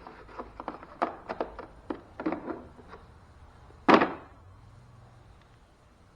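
Tools and mower parts being handled: a quick run of small clicks and knocks, then one loud thunk about four seconds in.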